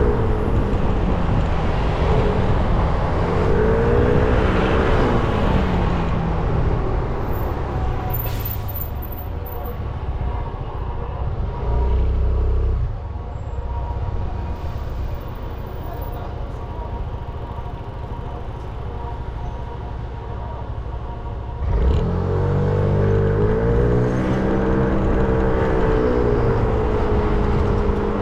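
300cc motorbike engine heard from the rider's seat, its pitch rising and falling as it accelerates and changes gear. It drops to a quieter, steady running in the middle. About three quarters of the way through it suddenly picks up again and pulls away, settling to a steady note near the end.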